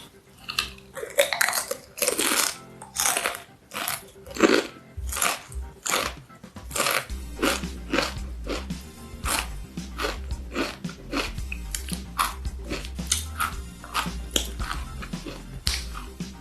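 Close-up crunching and chewing of a Paqui One Chip Challenge tortilla chip: many sharp, irregular crisp bites. Music with a low bass comes in underneath about halfway through.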